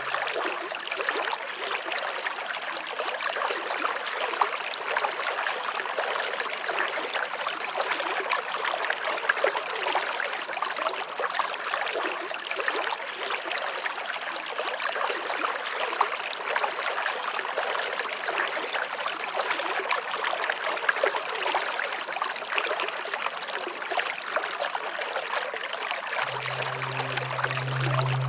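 Water of a stream running steadily, an even babbling rush. A low held musical tone comes in near the end.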